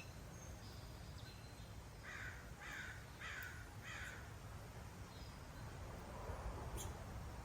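A bird at the feeders calls four times in quick succession, about two seconds in, each call falling in pitch, over faint outdoor background noise.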